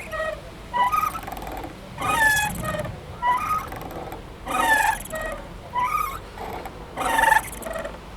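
Playground swing squeaking as it swings back and forth: short, falling, high squeaks come one or two a second, with the loudest about every two and a half seconds.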